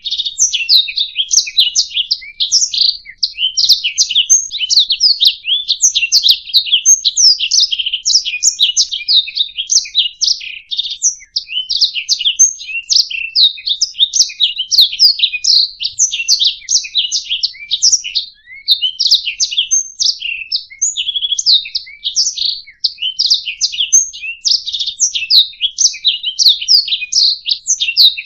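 Domestic canary singing a long, continuous, rapid song of chirps and trills without pause, the kind of recording played to train other songbirds.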